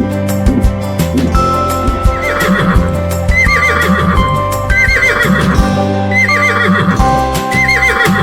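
Horse whinnying, a shaking high call repeated about five times, over steady background music.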